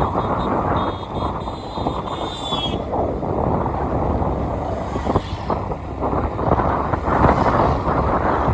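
Wind buffeting the microphone of a rider on a moving bike, with road and vehicle noise running underneath. During the first three seconds a high beeping tone sounds on and off, falling slightly in pitch at the end.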